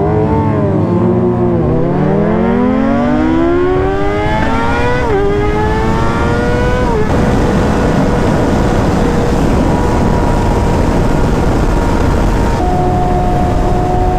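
A sportbike engine accelerating hard: its pitch climbs and drops back at two upshifts, then holds steady at speed over a rush of wind. Near the end it drops again with another upshift and starts climbing.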